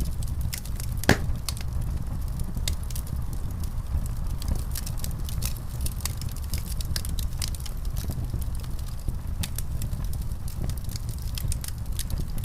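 Wood fire in a fireplace crackling, with frequent sharp pops over a low steady rumble; one louder pop about a second in.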